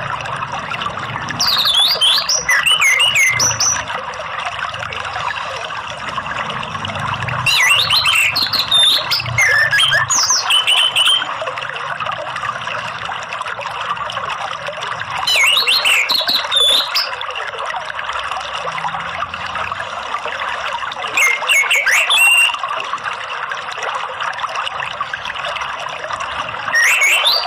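Running water trickles steadily under an orange-headed thrush (anis merah) singing. The bird gives five loud bursts of quick, varied high whistles, each one to three seconds long, spaced about five to six seconds apart.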